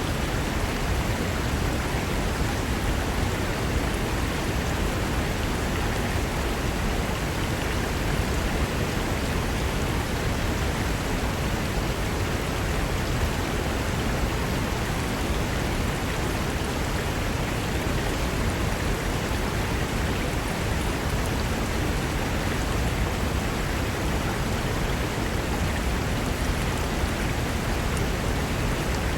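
Mountain river rushing over rocks: a steady, unbroken wash of water noise.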